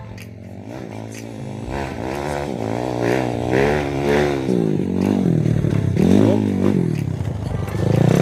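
Kawasaki KLX dirt bike's single-cylinder four-stroke engine revving, its pitch rising and falling again and again under the throttle, getting louder toward the end.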